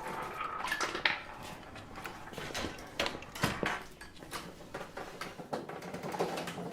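Small irregular clicks and taps of handwork at an embroidery frame, typical of an aari hook needle being pushed through stretched fabric and net.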